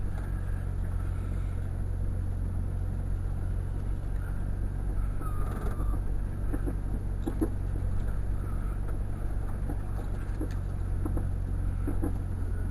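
Jeep running in four-wheel drive at low speed, heard from inside the cab as a steady low rumble, with a few light knocks as it goes down a steep, rough hill.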